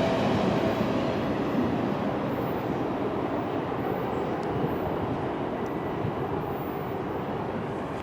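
Freight train rolling past on the rails, a steady rumble of the cars that slowly fades.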